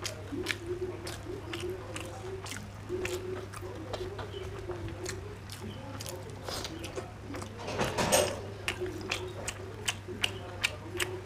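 Close-up mouth sounds of a person eating rice and curry by hand: chewing and lip smacks, with many short wet clicks and a louder burst about eight seconds in.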